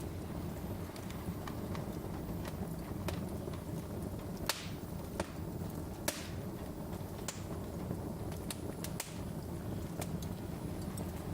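Wood fire in a fireplace crackling: a steady low rumble of flames with irregular sharp pops and snaps, a few louder pops around the middle.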